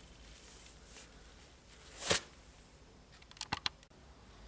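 Small hard parts being handled on a workbench: one sharp knock about two seconds in, then a quick run of four or five light clicks a second and a half later.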